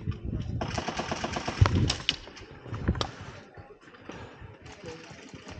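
Airsoft guns firing: a rapid burst of evenly spaced shots, then a few louder single cracks near the middle, and quieter rustling afterwards.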